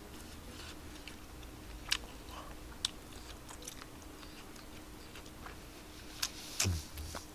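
Quiet eating noises from someone chewing spicy tteokbokki: a few sharp mouth clicks and smacks, with a louder cluster of smacks and a short falling sound near the end, over a faint steady hum.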